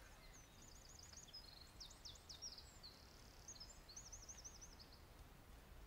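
Faint songbird singing: several quick phrases of repeated, looping high notes, over a low, steady background rumble.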